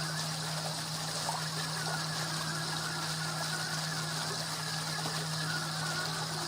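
Pond water running steadily, with a constant low hum from a pump.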